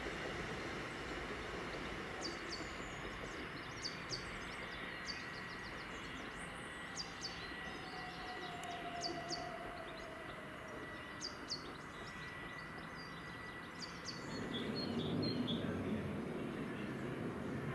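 Southern Class 377 electric multiple unit running away up the line, its steady running noise and thin electric whine fading as it recedes, with small birds chirping repeatedly. In the last few seconds the rumble of another train approaching rises.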